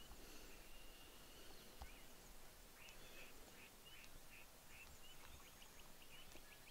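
Faint songbird calls in a quiet morning woodland: a thin held whistle at first, then a bird repeating short high notes about three a second for several seconds.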